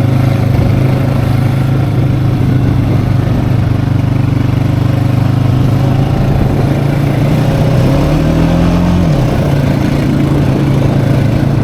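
Four-wheeler (quad ATV) engine running steadily; its pitch rises for about a second around eight seconds in, then drops back.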